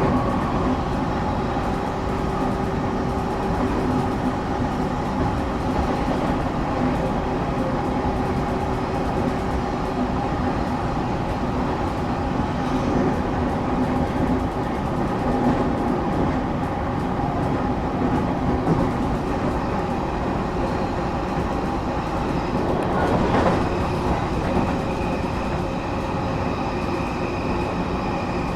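Passenger car of a moving train: steady running rumble with a constant motor hum. There is a brief louder swell about two-thirds of the way through, and a thin high tone joins near the end.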